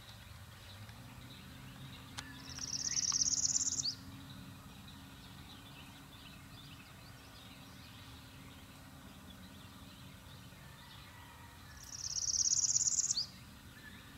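A small bird sings a high, dry, rapid trill twice, about nine seconds apart, each lasting about a second and a half and ending abruptly. Fainter chirps of other birds sound in the background.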